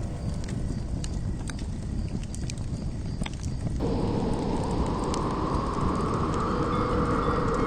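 Campfire crackling, with irregular sharp pops and snaps over a low rumble. About four seconds in, a steady rushing noise joins and grows slightly louder.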